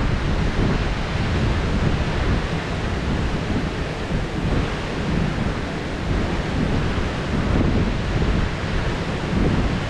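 Heavy rain pouring steadily, with thunder rolling in a low, rising and falling rumble underneath.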